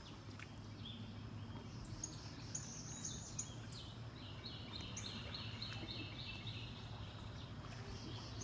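A bird calling in fast runs of short repeated high notes, about four a second, over a steady low background hum.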